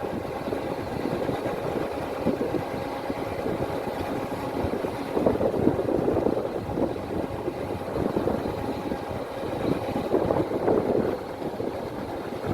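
Kubota DC-105X combine harvester's diesel engine and machinery running steadily, the level swelling and easing slightly.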